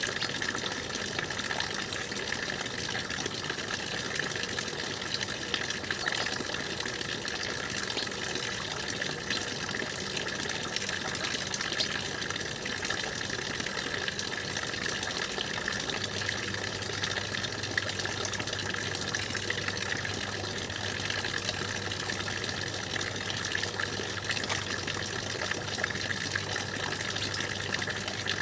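Stream water running steadily, an even rushing flow without breaks.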